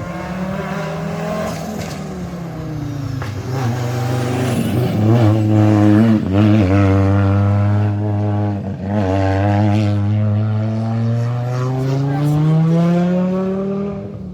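Rally car engine running hard on a stage, its pitch dropping over the first few seconds, then cut by several quick breaks around the middle as the driver lifts and shifts, and climbing steadily again near the end under acceleration.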